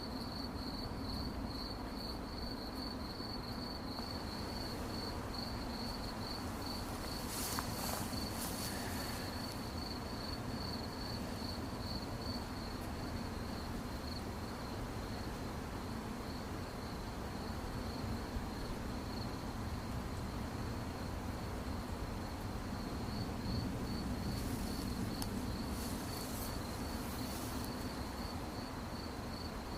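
Crickets chirping: a continuous pulsing high trill that holds steady throughout, over a low background hum. A few brief high hissy bursts come about a quarter of the way in and again near the end.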